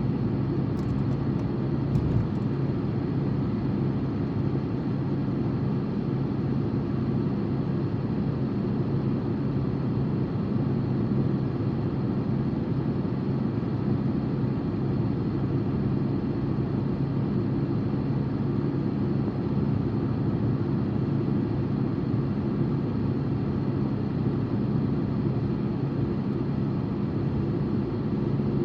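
Steady engine and tyre noise of a car driving at a constant speed, heard from inside the cabin as an even low hum with no change in pace, and a faint click about two seconds in.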